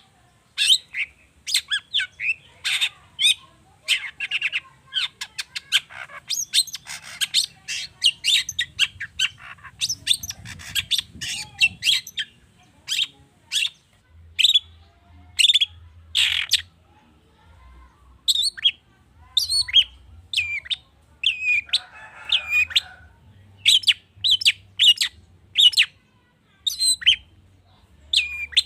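Long-tailed shrike (cendet) singing a fast run of sharp chirps and whistles, its song full of mimicked calls of other birds, with a short harsh rasp about three-quarters of the way through.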